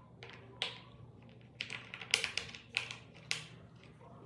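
A string of light, sharp taps and clacks at uneven intervals, loudest and closest together around the middle, like small hard objects being handled and set down on a table.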